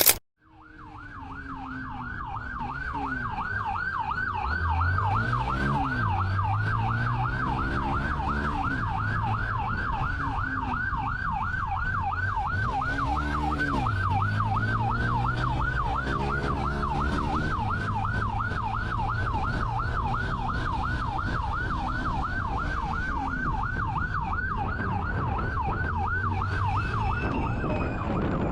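Police car siren in a rapid yelp, sweeping up and down a few times a second, growing louder over the first few seconds. Underneath it, the pursuing car's engine rises and falls as it accelerates.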